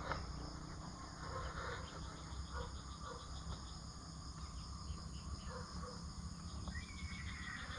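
Outdoor rural ambience: a steady high-pitched insect drone with a few faint bird chirps, and one falling call near the end.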